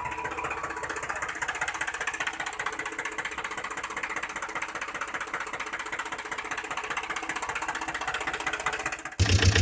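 Tractor engine sound effect: a fast, even mechanical chugging, then about nine seconds in a louder, deeper engine sound cuts in suddenly.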